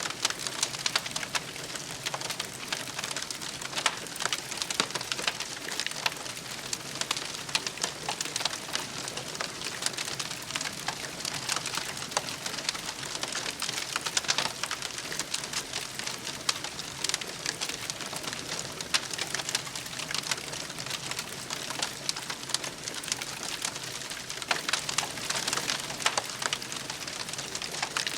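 Wood campfire crackling: a steady, dense run of small snaps and pops.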